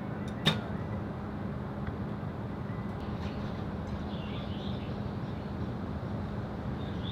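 One sharp snap about half a second in: an arrow being shot from a recurve bow. Under it runs a steady rush of wind noise with a low hum, and a few faint chirps come in partway through.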